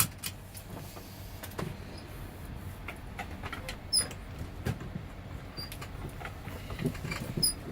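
A sharp click right at the start, then scattered small clicks, taps and rustles of someone handling things in a truck cab.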